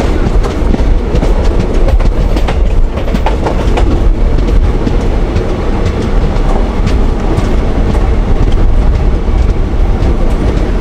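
Vivek Express passenger train running at speed: a loud, steady rumble of wheels on rail with scattered clicks.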